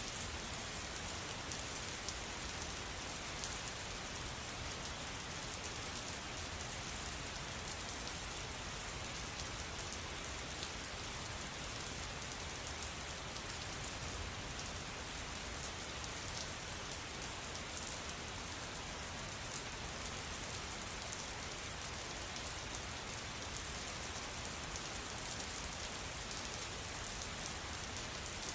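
Steady rain falling, an even hiss flecked with the small ticks of single drops.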